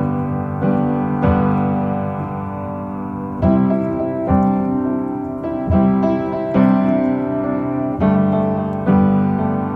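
Background music: a piano plays sustained chords, a new chord struck roughly once a second, with no singing.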